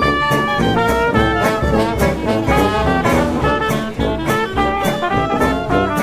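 Background music: an upbeat brass-led tune with trumpet and trombone over a steady drum beat, in a jazz or swing style.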